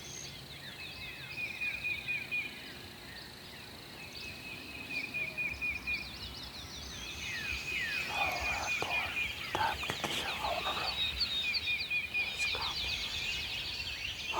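Songbirds singing in a morning chorus, several birds repeating high trills and chirps, getting busier and louder about halfway through.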